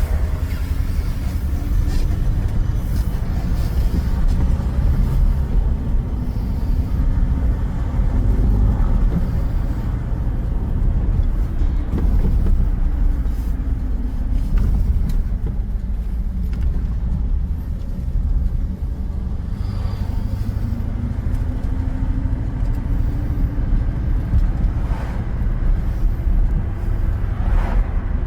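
A 1976 Rolls-Royce Silver Shadow's engine running with a steady low rumble, its pitch slowly drifting up and down several times.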